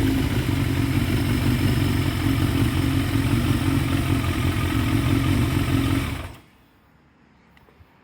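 Yamaha XJ750E's air-cooled inline-four, bored 3 mm over and fitted with a shortened XJR muffler, running steadily through its exhaust with no revving. About six seconds in, the sound cuts off suddenly.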